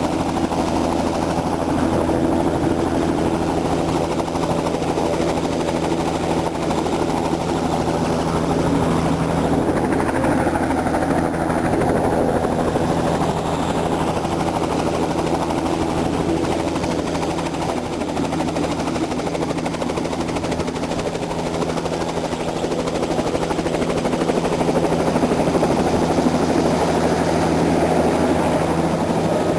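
Helicopter engine and rotor running steadily, heard from inside the cabin: a continuous, unbroken drone with a steady hum.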